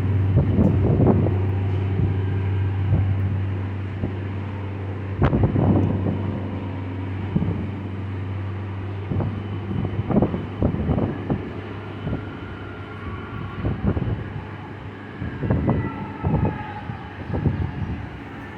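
Departing cruise ship giving off a deep, steady drone, strongest in the first few seconds. Gusts of wind buffet the microphone, and faint higher wavering tones come in near the end.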